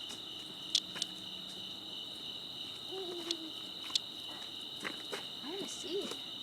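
Cicada buzzing: a steady, high-pitched drone of two close tones that runs on without a break, with a few sharp clicks about a second in and again near the middle.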